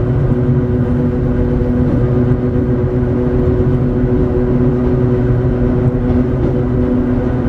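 Hakone Tozan Railway Moha 1-class electric railcar running, heard from inside the car: a steady, loud rumble of wheels and running gear with a constant hum of held tones from the traction motors and gearing.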